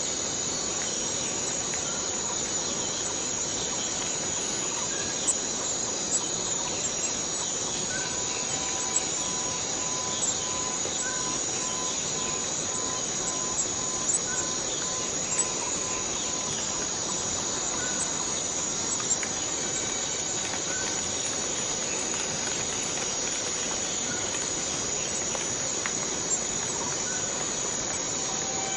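Forest cicadas droning steadily in a continuous high-pitched buzz. Faint short chirps are scattered through it, and a quieter pulsing tone runs for several seconds in the middle.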